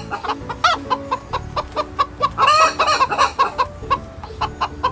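Chickens clucking: a run of short, repeated clucks, with a louder drawn-out squawk about halfway through.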